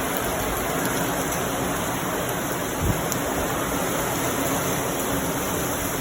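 Steady hiss of water, like rain or a rushing stream, with a brief low thud about three seconds in.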